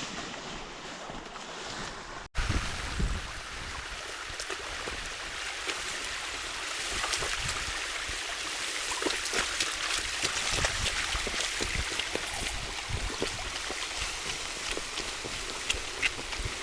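Steady rush of water with many small clicks, splashes and knocks scattered through it, broken by a sudden cut about two seconds in.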